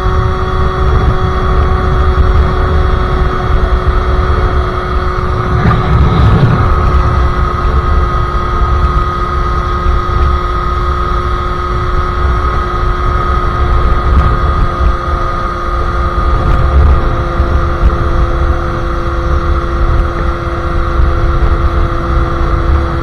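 Sherco SM-R 50cc two-stroke engine with a KRM exhaust and Polini 17.5 carburettor, running at steady high revs while riding, its pitch held almost constant. There is a heavy low rumble underneath, a brief break about six seconds in, and the pitch dips slightly near the end.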